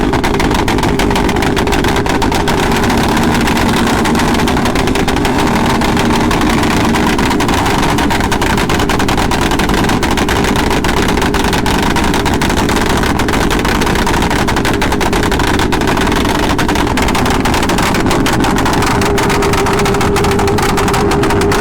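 Motorcycle engine running steadily at a constant pitch and level, its tone drifting only slightly.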